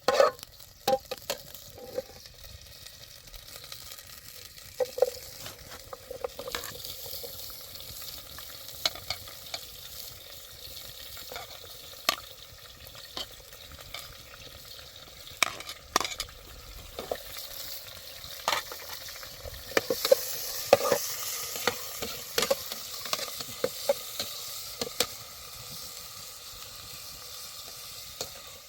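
Food frying in a pan: a steady sizzle with scattered sharp clicks and scrapes, the sizzle swelling about twenty seconds in.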